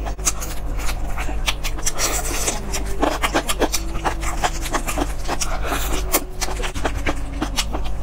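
Close-miked eating sounds of chewing glazed roast chicken leg meat: rapid wet smacks and mouth clicks, with a steady low hum underneath.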